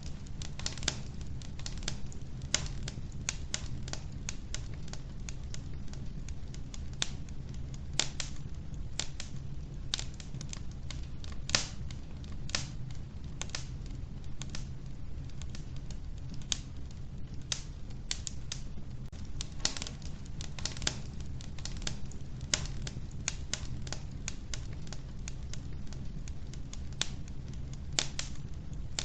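Wood fire burning in an old wood-burning stove. The logs crackle with frequent, irregular sharp pops over a low, steady rumble of the flames.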